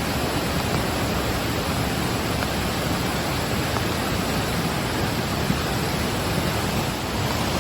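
Floodwater rushing steadily in a swollen creek, a continuous even wash of water noise.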